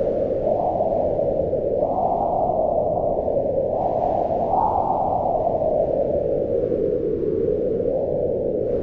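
Howling wind in a mountain snowstorm: a steady, moaning rush whose pitch slowly rises and falls as the gusts swell and ease, swelling most around two and four and a half seconds in.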